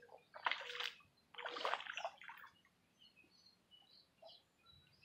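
Water sloshing and splashing in two short swishes, about half a second and a second and a half in, as a homemade styrofoam boat is rolled into the water.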